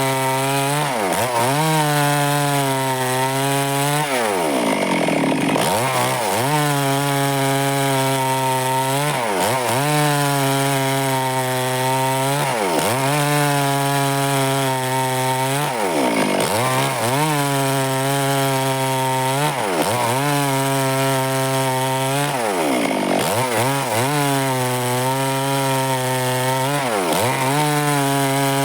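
Stihl chainsaw cutting wood at high revs. Its engine pitch drops briefly and climbs straight back about every two to three seconds.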